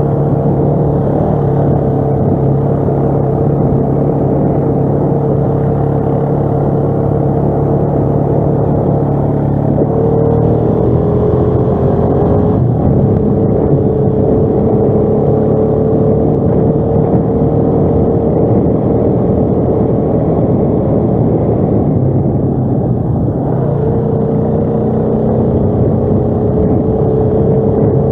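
ATV engine running steadily while riding, its pitch shifting with the throttle about a third of the way in and again near the end.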